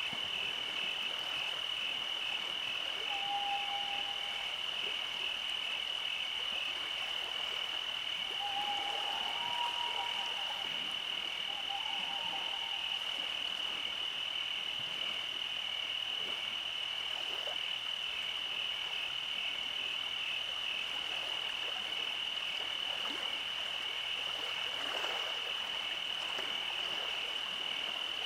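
A night chorus of frogs: a steady, high-pitched pulsing trill, with three short lower calls in the first half.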